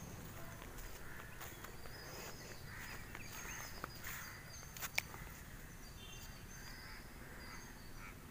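Faint open-air ambience over rice paddies with scattered small, high bird chirps, and a single sharp click about five seconds in.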